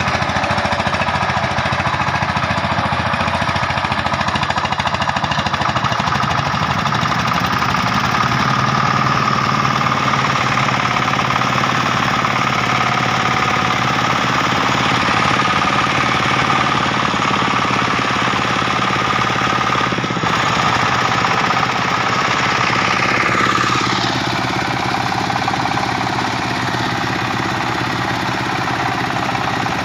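Single-cylinder diesel engine of a two-wheel walking tractor (koyun) running with a fast, hard knocking chug; about 24 seconds in its pitch falls and it settles into a lower, steadier run.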